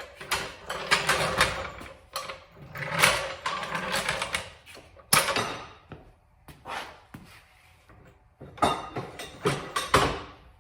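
Irregular metal clanks, knocks and scraping as a jack and parts of a stripped tractor are handled and moved.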